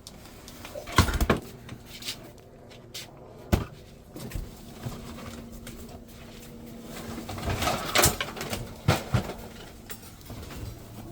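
A handful of sharp knocks and bangs, like hard objects being moved or struck, the loudest pair about a second in and another cluster near the end, over a faint steady hum.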